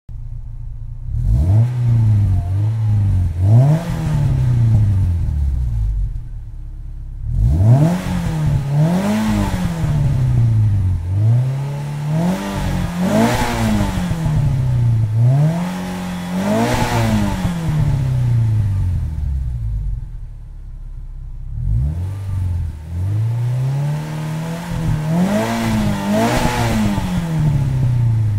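Renault Clio RS four-cylinder engine through an aftermarket Dory exhaust, revved repeatedly: the note climbs and falls back over and over in one- to two-second blips, with two short lulls where it settles back down.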